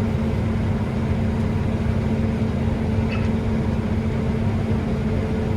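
Steady drone of a running New Holland combine heard from inside its cab, a constant engine and machinery hum with a low held tone.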